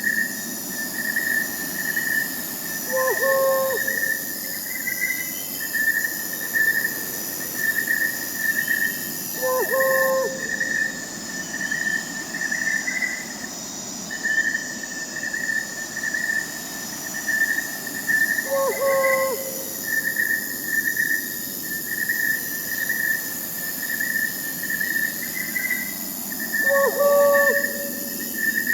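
Crickets chirping in a steady pulsing chorus over a thin high insect trill, with an owl hooting four times, several seconds apart.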